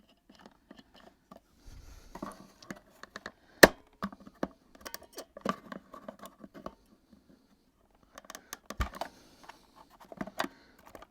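Irregular clicks, taps and scraping from hands and tools working on a plastic vacuum cleaner casing during a stripdown, with one sharp, loud click about three and a half seconds in and a heavier knock near the end.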